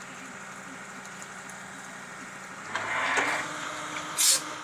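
A vehicle engine running steadily at low level, then a louder rush of noise a little under three seconds in and a short, sharp hiss near the end.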